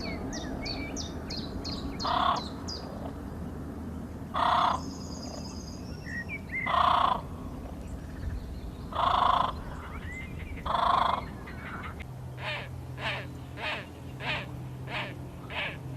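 A bird calling with five loud, harsh caws about two seconds apart, while smaller birds chirp high and thin in the first few seconds. From about three quarters of the way in, a quicker run of shorter, fainter calls follows, over a steady low background rush.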